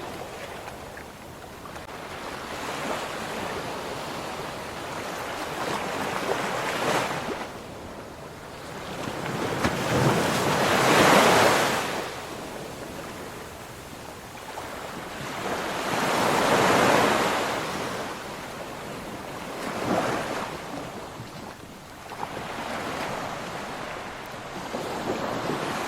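Ocean waves breaking and washing on a shore in slow surges, each swelling and fading over a few seconds, the largest about ten and sixteen seconds in.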